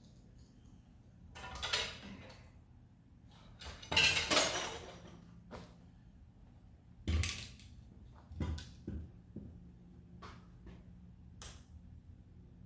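Metal tools and engine parts being handled: a series of separate clanks, knocks and scrapes, loudest about four seconds in, over a low steady hum.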